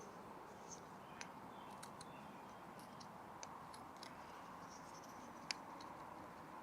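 Faint, scattered clicks and small cuts of a Swiss Army knife blade whittling a wooden wedge, over a quiet steady background hiss, with one sharper click about five and a half seconds in.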